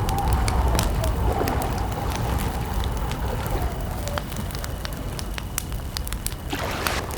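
Wood campfire crackling, with frequent sharp pops and snaps over a low steady rumble. A faint steady cricket trill runs underneath and stops near the end.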